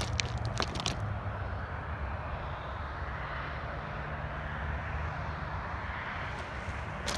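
Distant engine rumble, a passing vehicle or aircraft, swelling through the middle and easing off, with a few sharp clicks in the first second.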